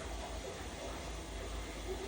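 Furnace blower running: a steady low hum with an even rush of air.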